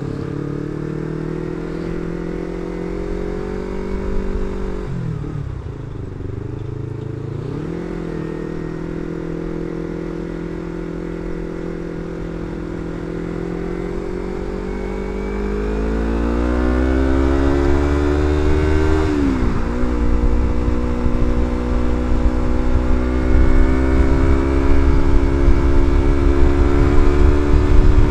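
Yamaha MT-25's parallel-twin engine through an R9 aftermarket exhaust, heard from the moving bike. The revs dip and recover twice early on, climb steadily, drop sharply at an upshift near twenty seconds, then hold. A low rumble of wind on the microphone grows as speed builds.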